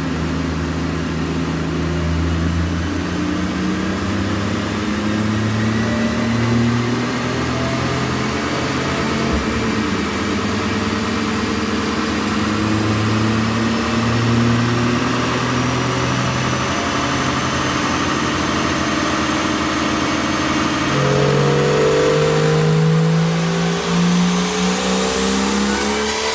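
BMW 335i's N54 inline-six, converted to a single Turbonetics turbo, pulling under load on a dyno. The engine note climbs slowly with a faint rising turbo whine, then rises faster over the last few seconds into a high, bright whistle.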